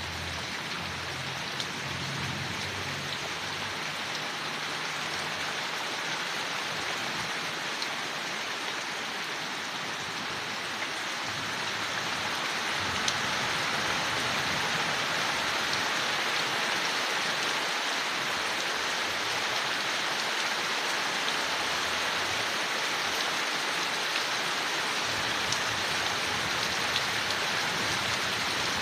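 Steady rain falling on leaves, an even hiss with scattered droplet ticks that grows a little louder about twelve seconds in.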